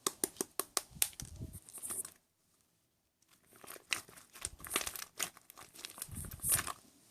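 Crinkling and crackling, like something being crumpled or torn by hand, in two bouts with a pause of about a second in between.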